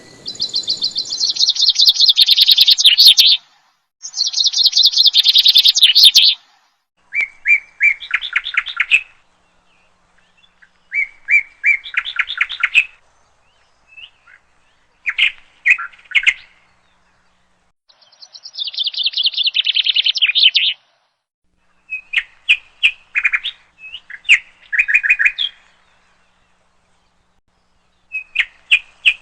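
Small songbird singing in about eight phrases of rapid trilled notes, each a few seconds long, with short pauses between them; some phrases are high and fall in pitch, others are lower, steadier trills.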